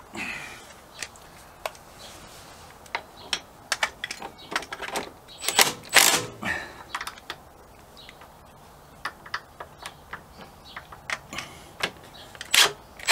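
Irregular metallic clicks and knocks of hand tools as a motorcycle foot peg is refitted and its bolts tightened, with a louder cluster of clatter about halfway through and again near the end.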